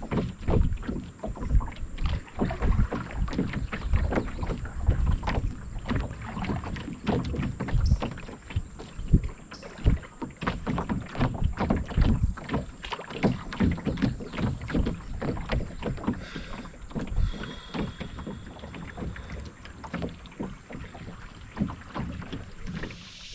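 River water splashing and gurgling against a moving canoe in a continuous, irregular patter, with a thin, steady high-pitched whine behind it.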